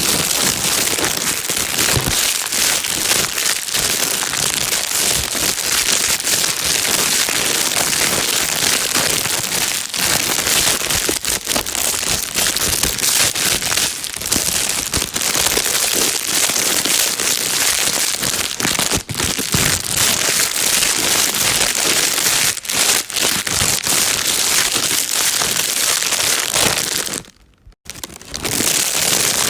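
Plastic bag being crinkled and crumpled without let-up, a dense crackling noise used as white noise to calm a baby. It breaks off for about a second near the end, then carries on.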